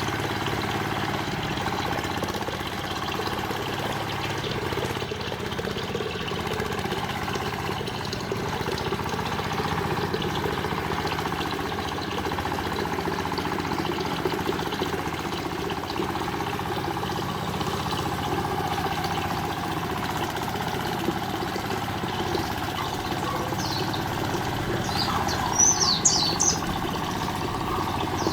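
An engine running steadily at idle. A few short, high bird chirps come in near the end.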